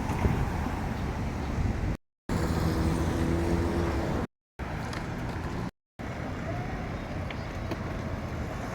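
City street traffic noise: a steady low rumble of passing vehicles, broken three times by brief dead-silent gaps where short clips are cut together.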